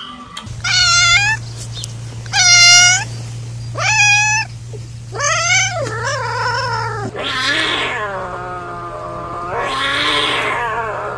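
Domestic cat meowing: four short, high meows about a second and a half apart, then longer, lower, drawn-out yowls near the middle and again toward the end. A steady low hum runs underneath.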